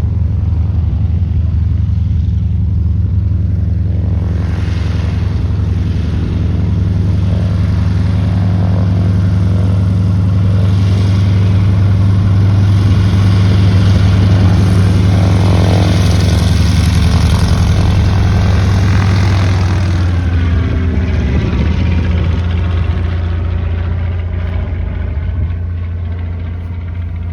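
Bücker Bü 133C Jungmeister biplane's engine and propeller running at takeoff power. The sound grows louder to a peak a little past the middle as the aircraft passes, then drops in pitch and fades as it climbs away.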